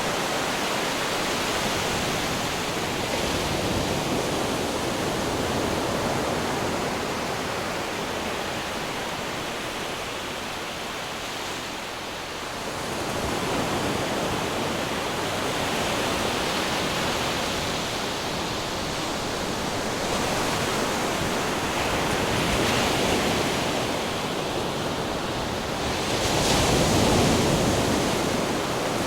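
Ocean waves breaking on rocks: a continuous rush of surf that swells and eases, dipping about twelve seconds in and rising to its strongest surge a couple of seconds before the end.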